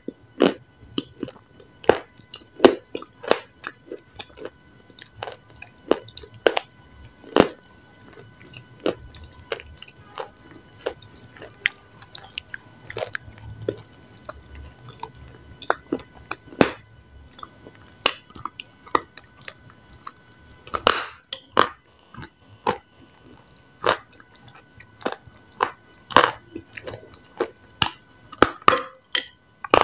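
Biting and chewing of a dry, crumbly grey chunk: irregular sharp crunches with quieter chewing between them, coming thicker and louder near the end.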